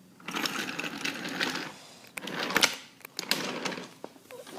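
Wooden toy train rolling along wooden track, its wheels clattering over the rails in several short runs of rattling.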